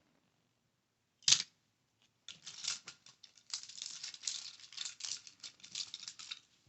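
A packaged Hot Wheels die-cast car, plastic blister on card, being handled for ASMR: one sharp tap about a second in, then a quick, irregular run of taps and crinkling plastic for about four seconds.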